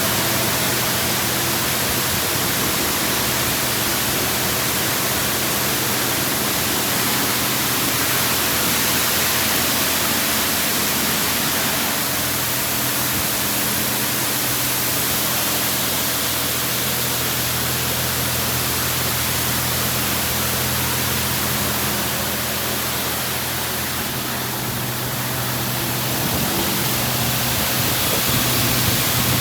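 D&S IQ 2.0 touch-free car wash spraying the car with high-pressure water jets: a steady rushing hiss with a low steady hum underneath.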